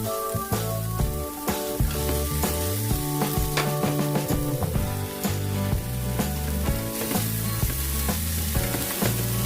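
Food sizzling in hot oil as it is stir-fried, with scattered clicks of the stirring, under background music.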